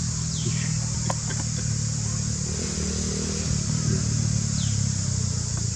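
An engine running steadily at low speed, with a constant high insect drone behind it and two short falling chirps.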